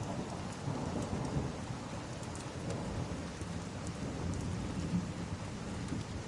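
Steady heavy rain with a continuous low rumble underneath, and a few faint, scattered crackles.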